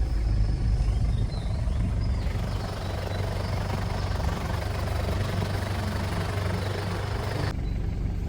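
Safari vehicle's engine running with a steady low rumble and rushing noise over it as it drives. The hiss changes suddenly near the end.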